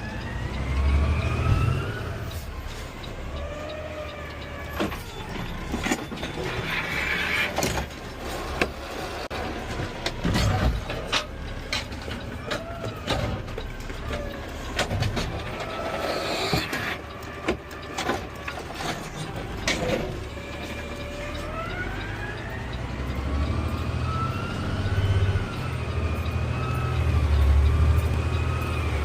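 Automated side-loader garbage truck heard from the cab: a whine that climbs in pitch with a swelling engine rumble as the truck pulls away, then rises and falls again later, with scattered knocks and rattles.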